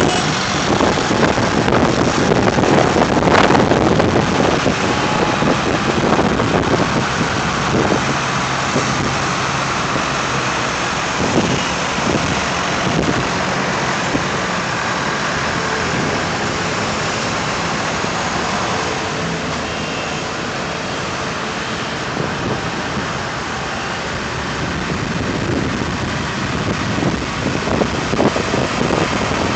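Several vintage tractor engines running as tractors drive past, louder in the first few seconds and again near the end.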